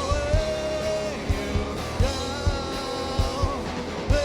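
Live rock band playing a song: a steady drum beat under guitars, with long held sung notes.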